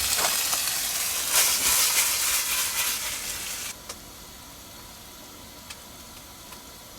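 Steaks sizzling in a hot frying pan, with a few sharp clicks in the first half. The sizzle cuts off abruptly about halfway through, leaving only a faint hiss.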